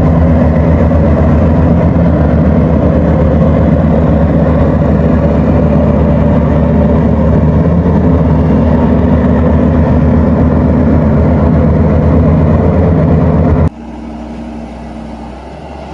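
Rice combine harvester's diesel engine running loud and steady at working speed. It cuts off suddenly near the end, leaving a much quieter engine hum.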